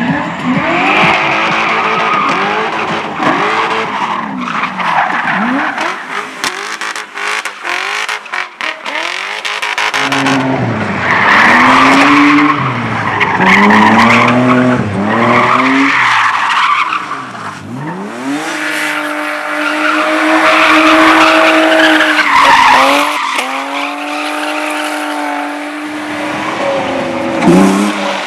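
Slalom competition car's engine revving up and falling back again and again as it accelerates and brakes between cones, with tyres squealing and skidding. A stretch of crackling comes around a quarter of the way in, and later the engine holds a steady note for a few seconds.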